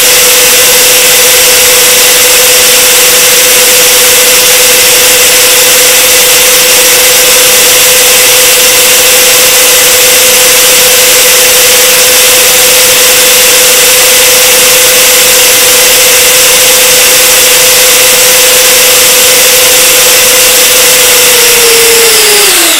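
Two electric ducted fans, engines 1 and 3 of a large RC Lockheed L-1011 TriStar model, running at high power with a steady, very loud whine and rush of air. Near the end they spool down, the whine falling quickly in pitch.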